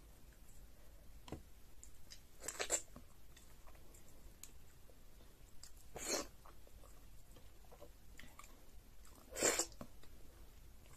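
Close-up eating sounds of fufu and egusi soup eaten by hand: soft chewing with three louder short mouth smacks, spaced about three and a half seconds apart.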